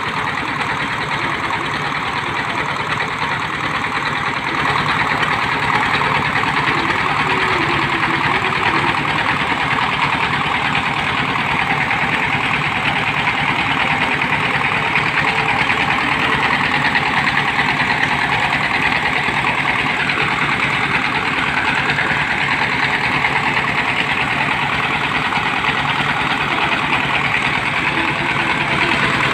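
Engine of a water-well drilling machine running steadily, a little louder about five seconds in.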